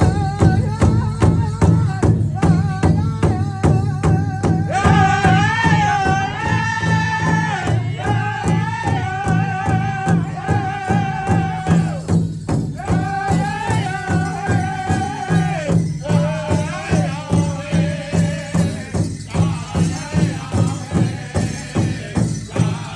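Ojibwe drum song: a large drum struck in a steady, even beat of about two and a half strokes a second, with high, held, wavering singing over it that pauses briefly twice.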